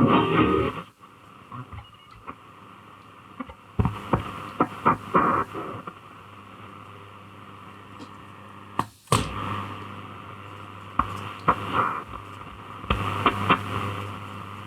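Grundig Satellit 2100 shortwave receiver tuned between stations: hiss and crackling static with a low hum, scattered clicks and crashes, and brief snatches of signal, all in a thin, muffled AM sound.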